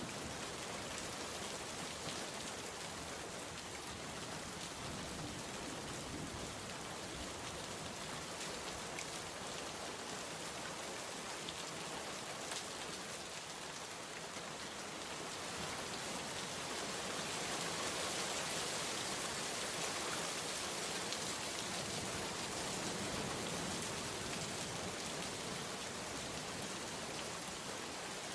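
Steady rain falling, with scattered drop ticks on a surface; the rain grows a little heavier about two thirds of the way through.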